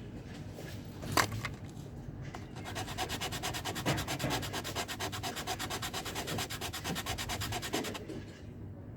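Rapid, even back-and-forth rubbing or scraping, about seven strokes a second, like hand sanding or filing, with a sharp click about a second in.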